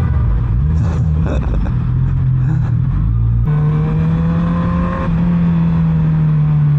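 Motorcycle engine running while riding, a steady engine tone whose pitch steps up about halfway through and then holds fairly level.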